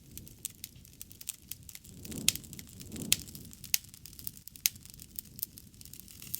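Campfire crackling: wood snapping and popping in quick irregular clicks over the low rush of the flames, which swells briefly about two and three seconds in.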